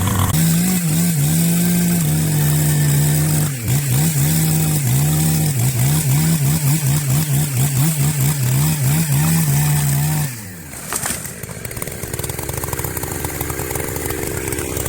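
Chainsaw running at full throttle, its pitch wavering rapidly as it loads and unloads in the cut. About ten seconds in it drops off sharply to a quieter, rougher running sound.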